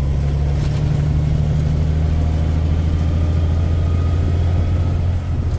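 Kenworth K100 cabover truck's diesel engine running steadily under way, a deep, even drone heard from inside the cab, which sits above the engine.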